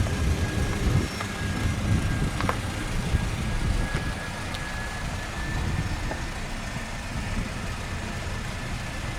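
Jet aircraft engine running at the airport: a steady high whine over a low rumble, the whine dipping slightly near the end.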